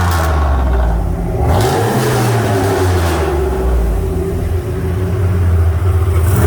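Turbocharged LS3 V8 with Wicked Flow Kamikaze mufflers, revved up and down in blips: one rise about a second and a half in and another at the end, with a hiss over the first second or so.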